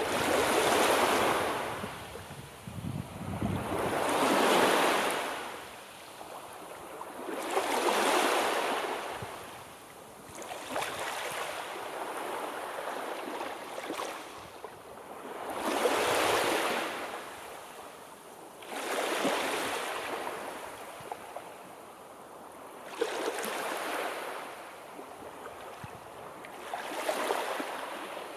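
Sea waves washing in, each one swelling and fading, about one every three to four seconds.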